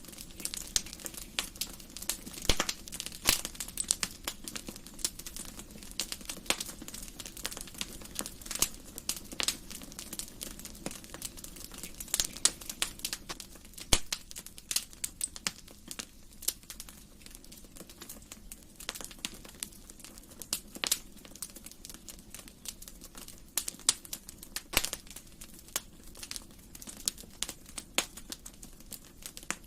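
Wood fire crackling in a fireplace: irregular sharp snaps and pops, several a second, some louder than others, over a soft steady hiss of burning logs.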